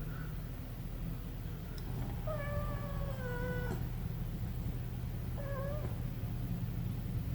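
Munchkin kitten meowing twice: one long, slowly falling meow a couple of seconds in, then a short one past the middle, over a steady low hum.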